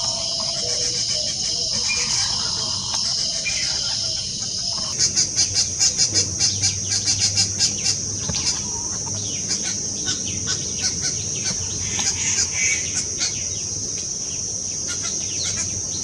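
A steady, high insect drone, with a fast run of short, harsh bird calls starting about five seconds in, about five a second, thinning out over the next several seconds.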